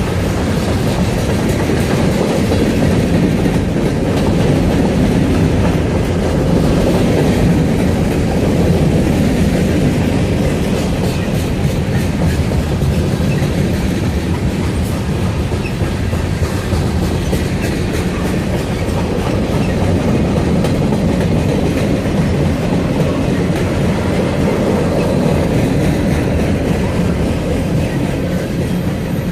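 Norfolk Southern freight train cars rolling past at steady speed, a continuous rumble with the wheels clicking over the rail joints.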